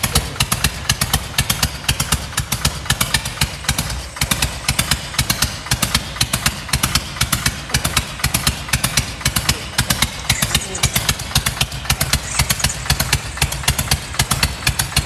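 Old Harley-Davidson motorcycle engine, over fifty years old, idling loud with an even, lumpy beat of about five to six pulses a second.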